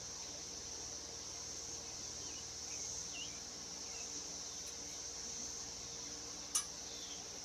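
Steady high-pitched insect chorus, with a single sharp click about six and a half seconds in.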